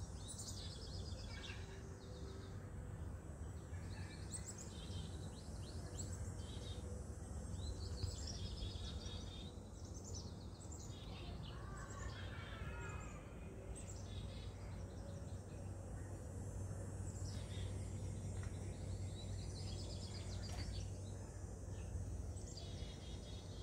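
Songbirds chirping and singing in short repeated phrases throughout, over a steady low background hum.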